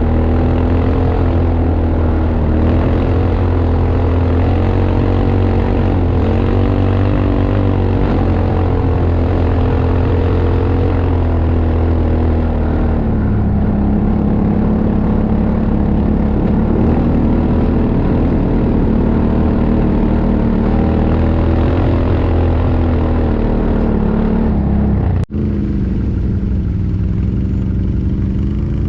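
ATV (quad bike) engine running continuously, its pitch rising and falling gently with the throttle. The sound drops out for an instant about 25 seconds in, and the engine note is a little lower after the break.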